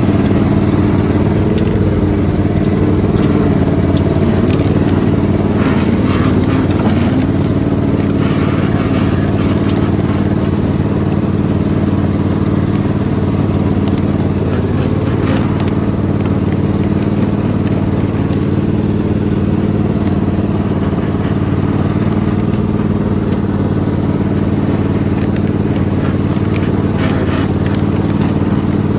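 Riding lawn mower engine running steadily, with a slight wavering of pitch a few seconds in.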